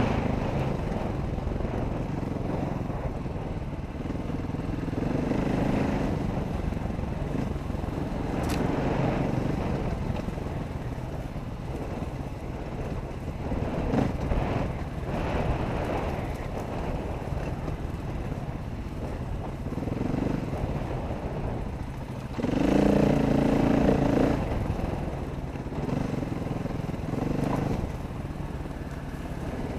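Dirt bike engine running while being ridden off-road, its loudness rising and falling with the throttle. The loudest burst comes a little past two-thirds of the way through, over a steady rushing noise.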